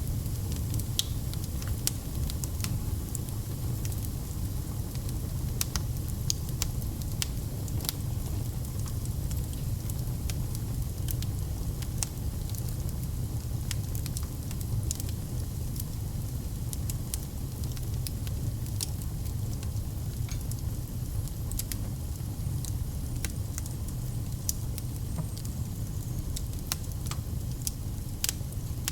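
Fire burning in a fireplace, crackling: irregular sharp pops and snaps over a steady low rumble of the flames.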